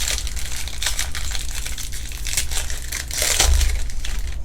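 Foil trading-card pack wrappers crinkling and tearing as 2021 Bowman packs are opened and handled, with a busier burst of crinkling a little past three seconds in. A low steady hum runs underneath.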